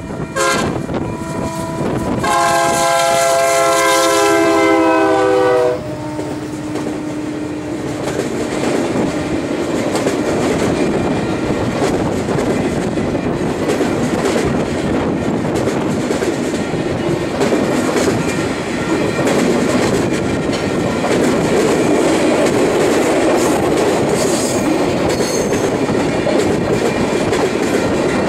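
Union Pacific EMD SD70M locomotive sounding its multi-note air horn in one long blast about two seconds in, lasting about three and a half seconds. The train then rolls past with a steady rumble of wheels and clickety-clack on the rails as its loaded flatcars go by.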